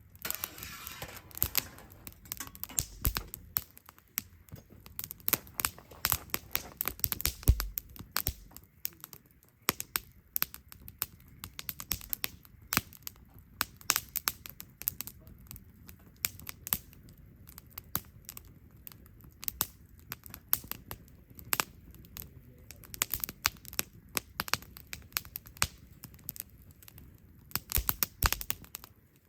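Wood fire crackling, with rapid, irregular snaps and pops and a few louder cracks.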